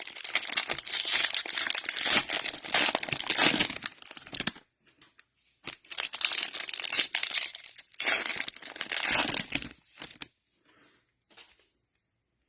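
Cellophane wrapper of a trading-card cello pack being torn open and crinkled by hand, in two spells of crackling with a short pause between, then it goes nearly quiet.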